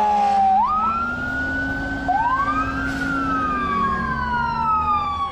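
Siren wailing, with two overlapping tones that each sweep up and then slide slowly down, over a steady low vehicle hum.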